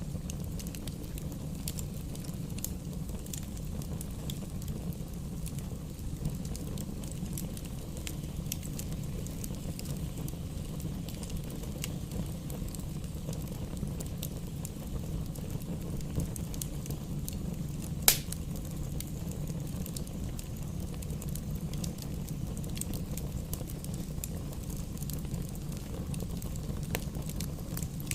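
Wood fire burning in a fireplace: a steady low rumble of flame with scattered small crackles, and one sharp, louder pop about two-thirds of the way through.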